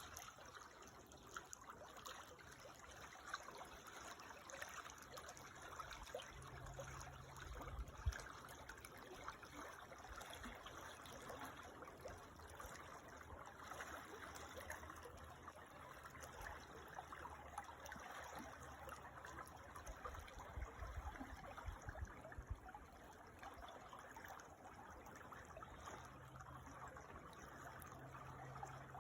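Creek water trickling and running steadily, soft and even, with an occasional low rumble and a single sharp knock about eight seconds in.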